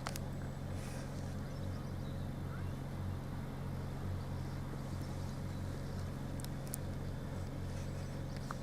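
Steady low engine hum of an idling vehicle, unchanging throughout, with a few faint light clicks near the end.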